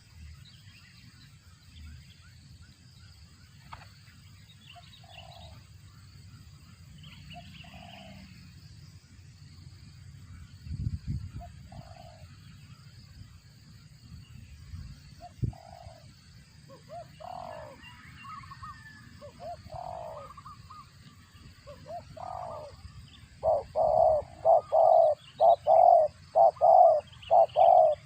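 Spotted dove calling while feeding its young, in a voice likened to a cricket: scattered short soft calls, then from about 23 seconds in a rapid run of loud short notes, about two or three a second. Two dull thumps come in the middle.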